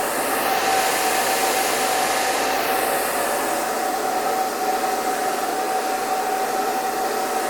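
Hair dryer running steadily: a rushing blow of air over a constant motor whine, with the hiss slowly shifting in tone in the high end.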